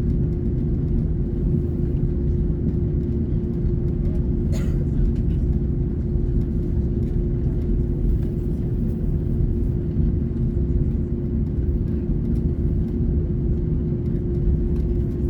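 Steady low rumble and drone inside the cabin of an Airbus A330neo airliner, its Rolls-Royce Trent 7000 engines running, with one even hum tone over the rumble. A single short click about four and a half seconds in.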